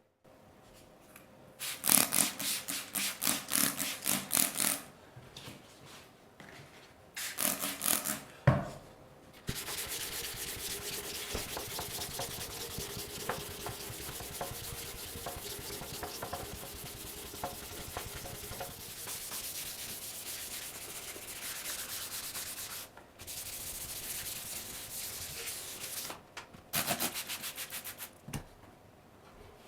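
Sanding: bursts of quick back-and-forth scraping strokes, then long stretches of continuous rubbing, broken by short pauses.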